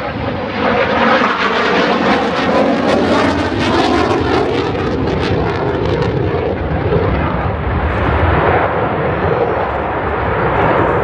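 An airplane flying overhead: a loud, steady rush of engine noise, brighter and crackling through the first half, then smoother.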